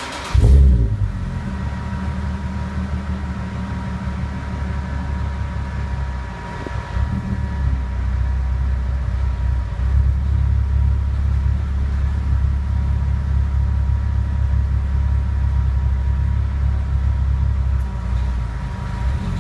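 Nissan Skyline Coupe's V6 engine firing up about half a second in with a brief loud flare, then idling steadily through an aftermarket exhaust: a centre pipe, a sports catalytic converter and a modified 5ZIGEN muffler.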